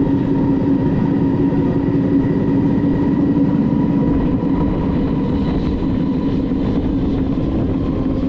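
Passenger train running at speed, heard from its open window: a steady rumble with a steady engine drone.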